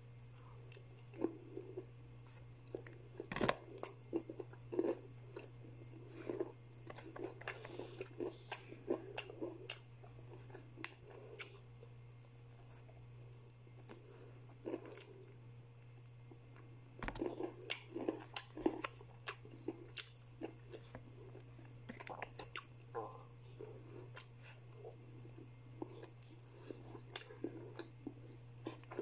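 A person chewing crispy fried chicken close to the microphone: irregular short crunches and chewing sounds, with one sharp crunch about three and a half seconds in and a thick cluster of them about seventeen seconds in.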